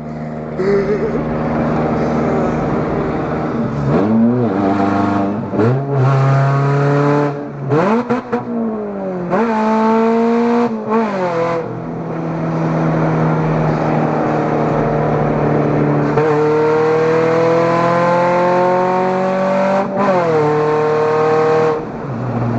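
Supercharged 2.0-litre four-cylinder of a Chevrolet Cobalt SS under hard acceleration with essentially no exhaust, the exhaust flange on the down pipe having blown out. Engine pitch climbs and drops back at each of several gear changes, then falls near the end as the throttle is eased off.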